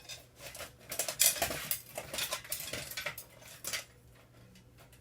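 Hand tools clinking and knocking against the thin sheet metal of an old Black & Decker toaster oven as it is pulled apart, a quick run of sharp metallic clicks that dies down near the end.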